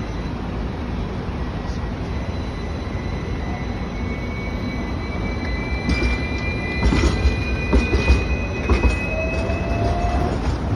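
Hong Kong double-decker electric tram running on its rails: a steady rumble with a thin, high wheel squeal that slowly rises in pitch. A run of clunks over the track comes from about six to nine seconds in.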